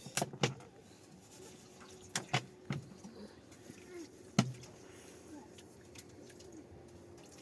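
A few sharp knocks at uneven intervals: two close together near the start, three more around two seconds in, and a single louder one a little past four seconds.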